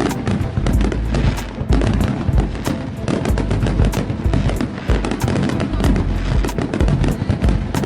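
Fireworks salute going off: a dense run of bangs and crackles, several a second, over a continuous low rumble.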